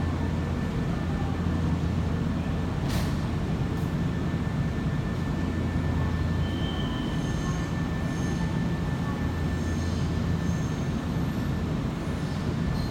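Nankai electric train moving through the platform tracks with a steady low rumble, a sharp click about three seconds in, and faint short wheel squeals in the second half.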